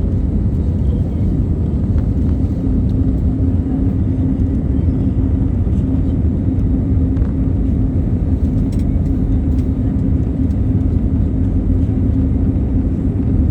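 Airliner cabin noise in flight: a steady, loud rumble of jet engines and airflow with a constant low hum.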